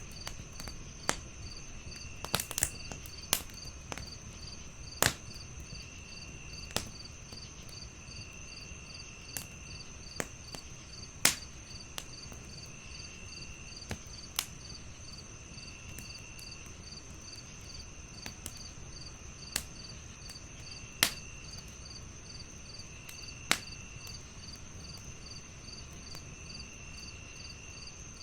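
Wood fire crackling, with sharp irregular pops that stand out as the loudest sounds, over a steady night chorus of crickets: a continuous high trill, a regular chirp, and a lower insect trill that comes and goes.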